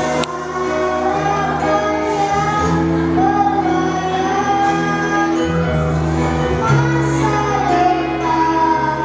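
Children's choir singing a praise song over instrumental accompaniment with sustained bass notes, a brief click about a quarter second in.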